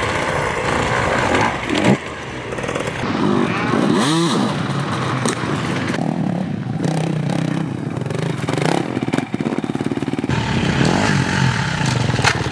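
Dirt bike engines running and revving up and down, the sound changing abruptly a couple of times.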